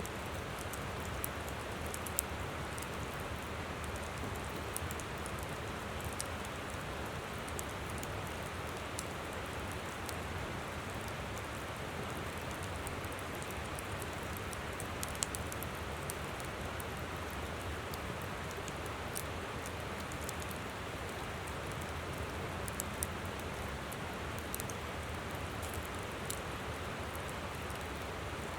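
Wood campfire crackling with scattered sharp pops, a few louder than the rest, over the steady rush of a flowing river.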